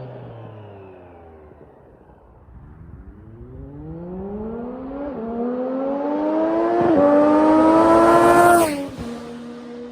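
Triumph Street Triple RS 765's three-cylinder engine, through a stock exhaust with both catalytic converters removed, accelerating hard toward the microphone. The pitch climbs and drops sharply twice at upshifts, grows loudest as the bike passes close, then falls suddenly to a lower steady note.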